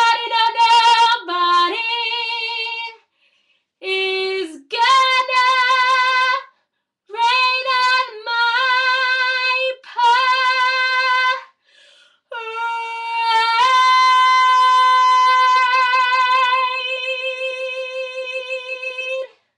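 A girl singing a cappella, with no accompaniment: several short sung phrases on held high notes, then one long held note from about twelve seconds in that wavers near the end and stops.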